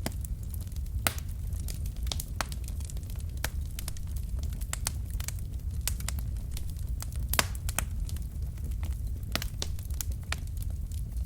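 Wood fire of burning logs in a fireplace: irregular sharp crackles and pops over a steady low rumble of the flames, with a louder pop about a second in and another near the middle.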